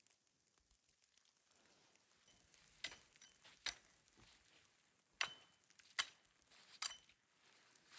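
About five sharp, irregular clicks or snaps, roughly a second apart, over near silence.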